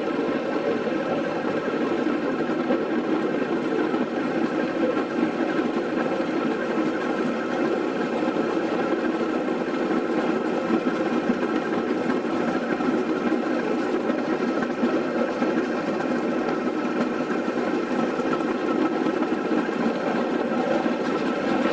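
Diesel locomotive engine running steadily: an even, unbroken drone with no change in speed.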